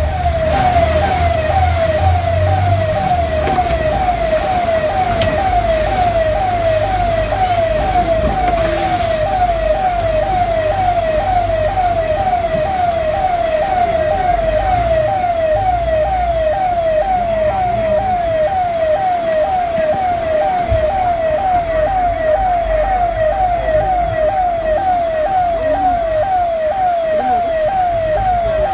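An electronic siren or alarm repeats a falling tone about one and a half times a second, without change, over a low rumble.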